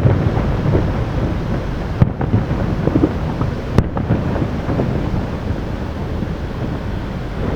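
Distant aerial fireworks: two sharp shell bursts, about two seconds and just under four seconds in, over a continuous low rumble of further bursts.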